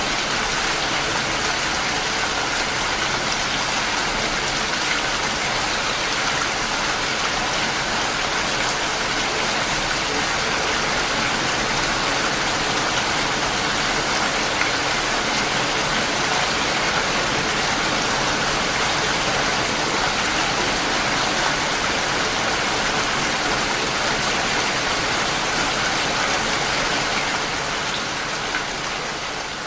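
Steady rain falling, an even, dense hiss with no pauses, fading down over the last couple of seconds.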